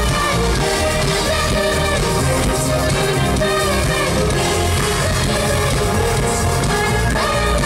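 Live pop-rock band music with a sung vocal line over a steady bass and drums, heard loud through a concert sound system.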